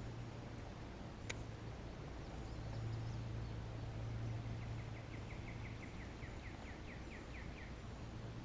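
A bird trilling a quick series of short downslurred chirps, about five a second, for a couple of seconds in the second half, over a steady low rumble, with one sharp click about a second in.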